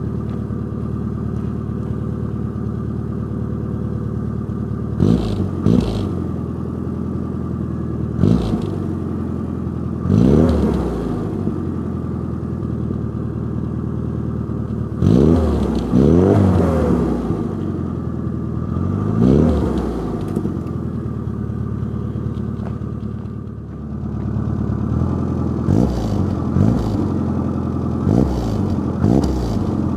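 Rover Mini's A-series four-cylinder engine idling through a Kings Road stainless-steel aftermarket exhaust, with about a dozen short throttle blips where the revs rise and drop back quickly, some in quick pairs. The last few blips, near the end, are smaller and come in quicker succession.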